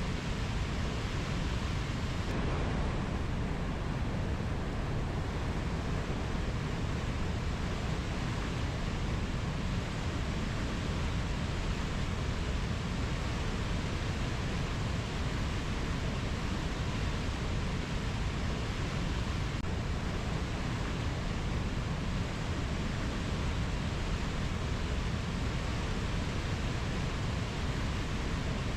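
Steady, even rushing noise, heaviest in the low end, with no distinct calls, tones or knocks.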